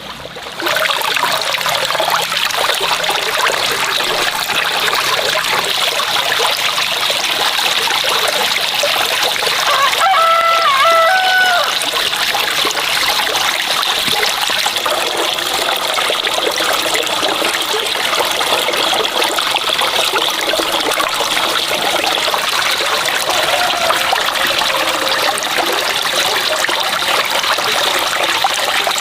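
Water running and trickling steadily. About ten seconds in, a rooster crows once.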